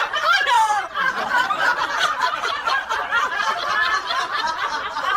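Hearty laughter, snickering and chuckling without a break.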